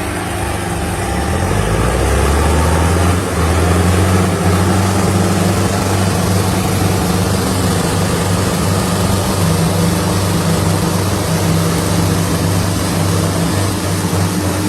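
Sonalika tractor diesel engine running hard under load, its pitch climbing over the first two seconds and then holding steady and loud.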